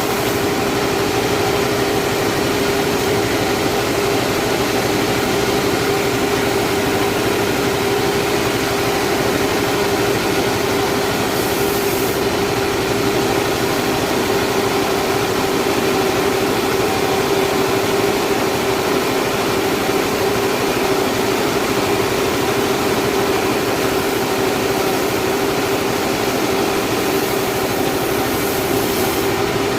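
Sawmill saw running steadily, a constant machine hum with a steady mid-pitched tone over a broad noise.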